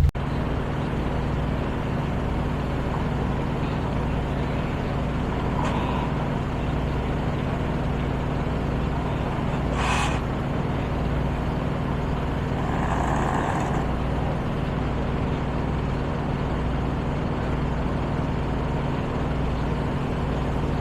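Diesel engine of a semi truck idling steadily, with a brief sharp click about ten seconds in and a short hiss a few seconds later.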